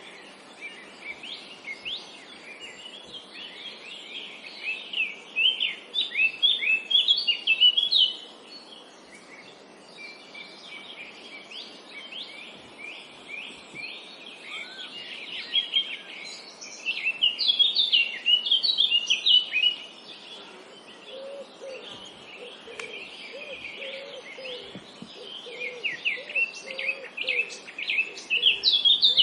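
Several songbirds singing in a forest chorus, with fast runs of high chirping notes that swell and fade in bouts, the loudest near the end, and a lower chirping call repeating for several seconds in the second half. A steady soft background hiss lies under it.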